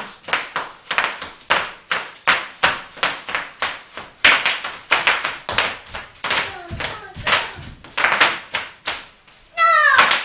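Bubble wrap being crushed, its bubbles popping in sharp, irregular cracks, several a second. A brief high voice cries out near the end.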